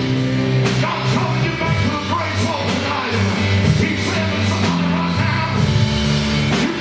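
Live band music with drums, bass guitar and piano playing together, and a voice singing over them.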